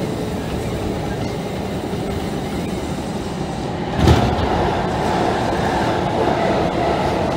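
Kintetsu train running on rails, heard from the cab: steady rolling wheel noise, with a sudden rush of air about four seconds in as an oncoming express train passes close alongside. Its running noise stays a little louder after that.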